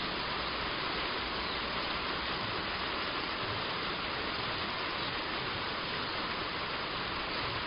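Heavy rain falling steadily on a roof, an even hiss with no breaks.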